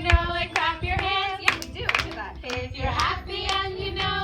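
A group singing a song together with rhythmic hand clapping, about two claps a second.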